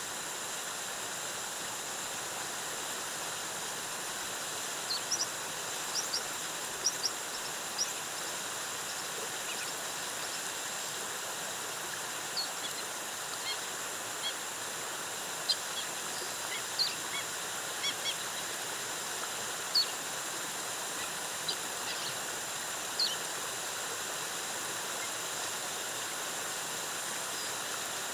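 Steady rush of a rainforest waterfall, with short, high bird chirps scattered over it through the middle stretch.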